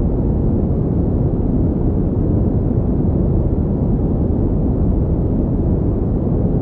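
Steady pink noise: an even, unbroken rushing sound, deep rather than hissy, with nothing else in it.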